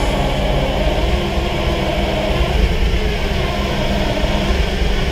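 Chevy C90's Detroit Diesel two-stroke engine cranking over on the starter and trying to run on ether. It is not picking up diesel fuel.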